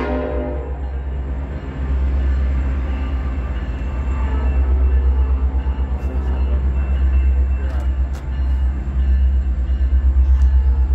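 Diesel freight locomotive approaching slowly, its engine giving a loud, low, pulsing rumble. A train horn trails off in the first moment.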